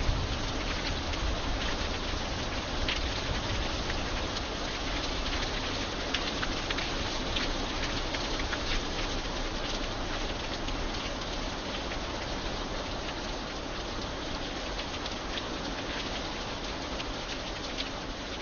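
Steady rain falling on an iron bridge: a constant hiss with many sharp, separate drop ticks and a low rumble beneath.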